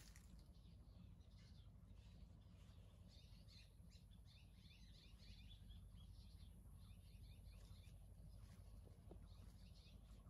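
Near silence: faint, rapid chirping of small birds over a low, steady background hum.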